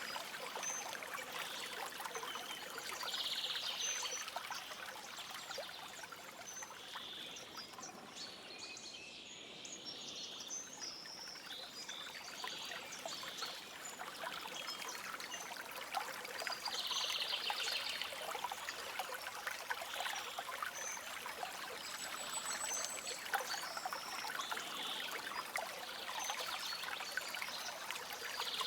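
Small stream trickling and babbling steadily, with short, high, trilling bird calls breaking in every few seconds.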